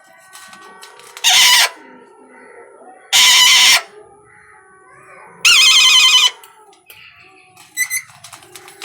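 Pet parrot giving three loud, harsh screeching calls about two seconds apart, the third longer and warbling, then a couple of short sharp calls near the end, with softer chatter in between.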